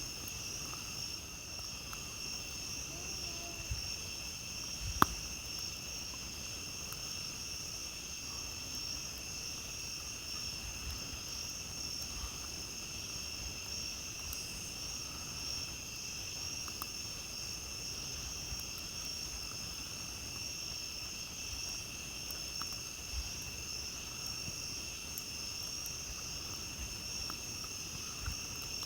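A steady, high chorus of night insects, with a campfire crackling in occasional small pops; one sharp pop about five seconds in is the loudest sound.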